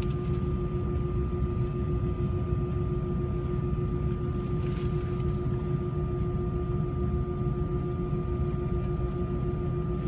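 Steady jet airliner cabin noise: a constant low rumble of engines and airflow with a few steady humming tones over it.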